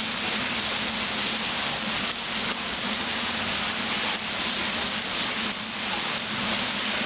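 Heavy rain falling steadily onto standing floodwater and wet pavement, a continuous even hiss of drops hitting the water's surface.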